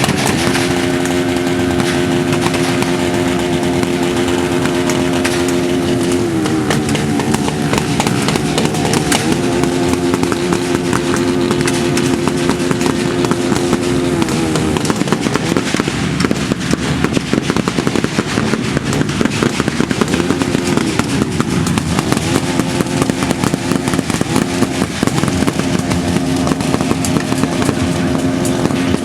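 Motorcycle engines running hard: revs held high and steady, then sliding to new pitches several times, over a dense crackle of pops.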